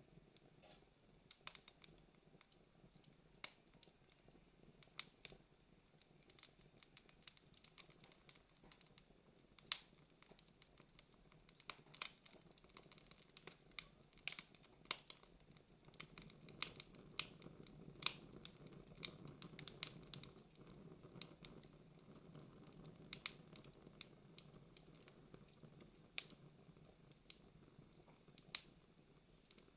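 Campfire burning and crackling: faint, irregular sharp pops and snaps over a soft low rustle of the flames.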